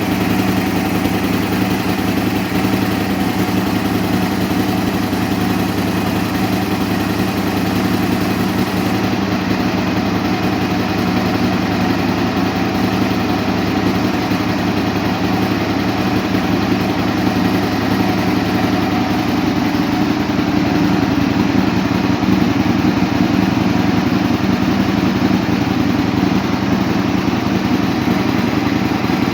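Aprilia RSV 1000 R Tuono's 998 cc V-twin idling steadily through an aftermarket Leovince exhaust, its note shifting slightly about twenty seconds in.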